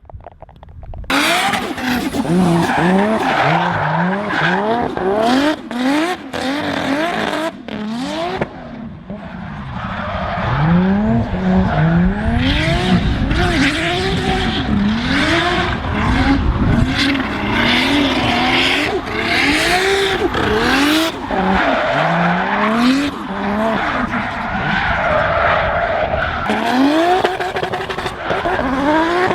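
Nissan Skyline R33's RB26 twin-turbo straight-six revving hard and dropping back again and again while drifting, with tyres skidding.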